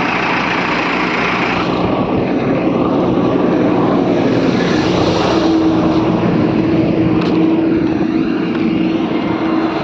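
Diesel engine of an Ajax ARGO 4300 self-loading concrete mixer running steadily, with a steady higher hum joining about halfway through.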